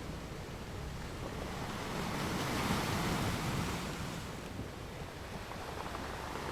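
Steady rushing sea-water noise like surf, swelling a little about two seconds in and easing again after about four seconds.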